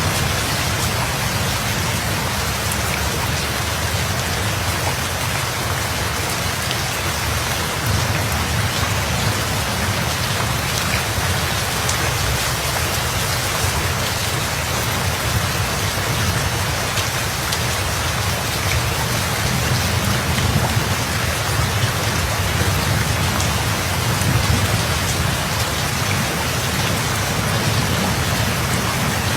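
Steady rain falling, with a low rumble of distant thunder underneath that swells slightly now and then.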